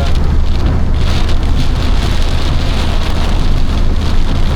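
Heavy rain pelting a moving car's roof and windscreen, over a steady low rumble of the car on the road.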